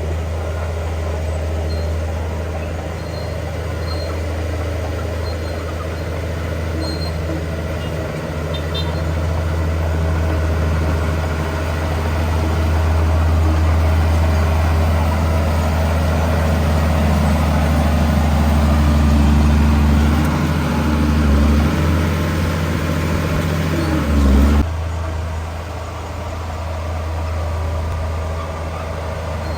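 Diesel engine of heavy earthmoving machinery running steadily with a deep drone. It works harder past the middle, with its pitch shifting up and down, then drops off abruptly near the end.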